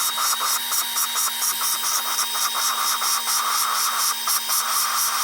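Power-driven valve lapping: an exhaust valve from a Nissan D21 Hardbody head spun against its seat with lapping paste, making a steady grinding with a quick even pulsing of about six beats a second over a constant motor hum.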